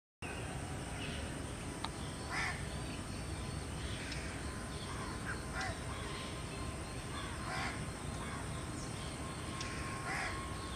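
Several short, harsh bird calls spaced about two seconds apart over a steady low rumble. A faint steady whine from the Airbus A320's jet engines comes in about halfway through.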